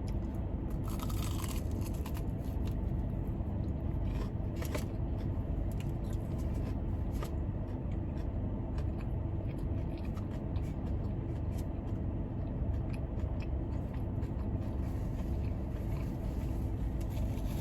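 Steady low hum of a car's air conditioning running inside the cabin, with scattered soft clicks and crunches of someone chewing food close to the microphone.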